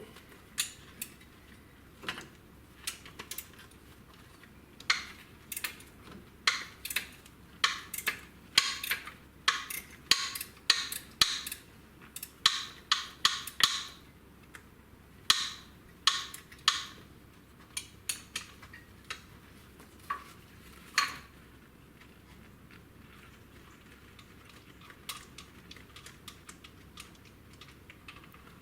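Short sharp metallic clicks in irregular runs as a bolt under the supercharger's manifold is undone with a hand tool, typical of a socket ratchet worked in short swings. The clicks come thickest in the first half and thin out later.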